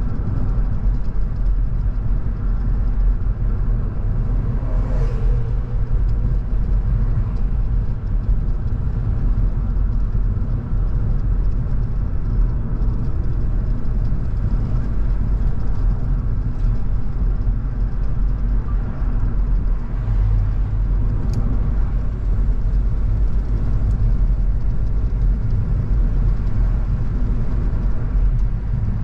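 Car driving on the open road: a steady low rumble of engine and tyre noise. A brief falling tone comes about five seconds in, and a short click comes about two-thirds of the way through.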